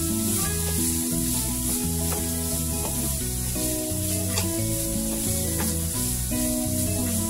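Diced chicken, sausage and vegetables sizzling in a frying pan as a wooden spatula stirs and tosses them, with a few light clicks of the spatula. Background music plays over it.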